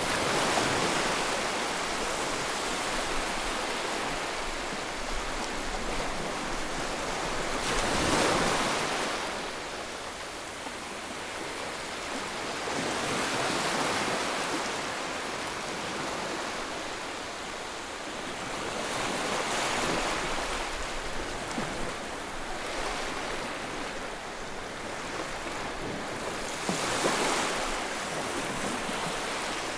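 Ocean waves breaking on a shore, a steady wash of surf that swells with each wave about every five to six seconds, the loudest crests near 8 s and near the end.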